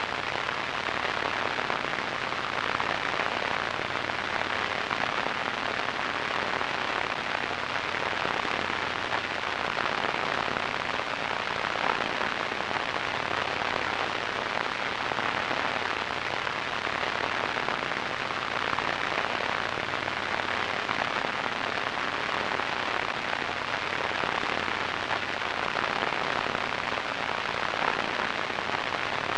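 Radio static: a steady hiss with fine crackle, strongest in the middle and upper range, without pause or change.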